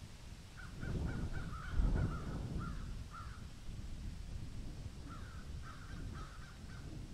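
A bird calling in two runs of short repeated calls, about three a second, over a low rumble that swells about two seconds in.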